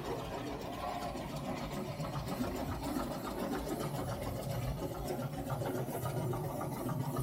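Steady, fast mechanical clatter and rumble in the cab of a three-truck Shay geared steam locomotive.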